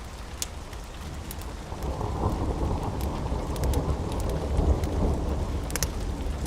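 Steady rain with a low thunder rumble that builds about two seconds in and keeps rolling. A few sharp crackles from a wood fire sit on top.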